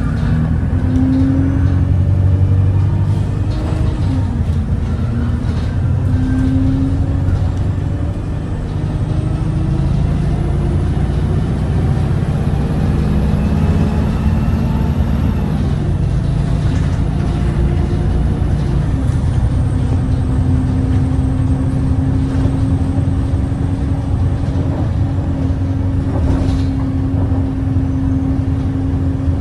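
Alexander Dennis Enviro 200 bus with a Cummins ISBe diesel and Voith automatic gearbox, heard from inside while under way, its engine note rising and falling through the gears. About 8 s in the gearbox drags on a shift, which leaves the bus vibrating and slow to pick up speed.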